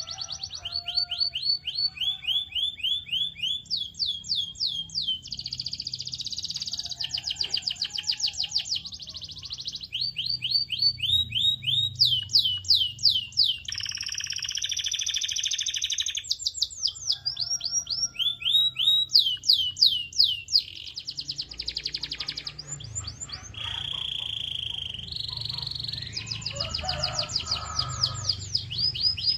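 Canary singing a continuous song of fast repeated phrases: rapid trills of sweeping notes that change to a new phrase every second or two, with a short held whistle about three-quarters of the way through.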